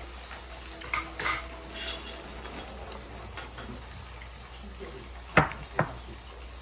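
Tableware clinking during a meal: a few light clicks of chopsticks or spoons on dishes, then two sharp clinks close together near the end.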